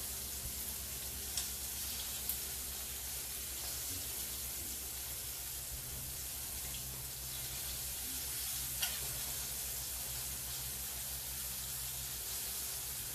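Shrimp frying in hot oil in a pan, a steady sizzle, with a few short sharp clicks along the way.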